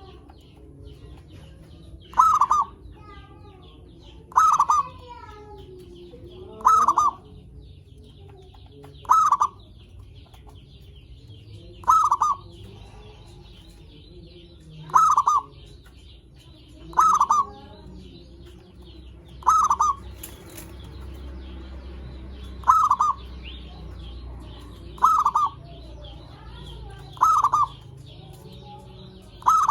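Zebra dove (perkutut) calling: short cooing phrases repeated about every two to three seconds, around a dozen times, with other small birds chirping faintly behind.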